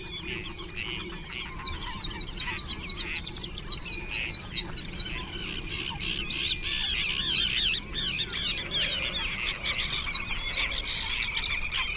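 A flock of small birds chirping and twittering, many calls overlapping and growing denser a few seconds in.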